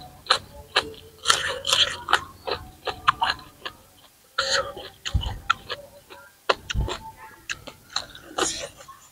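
Close-up eating sounds: crisp crunching, chewing and wet lip-smacking as raw vegetables, leaves and papaya salad are bitten and chewed. There are two low thumps, about five and seven seconds in.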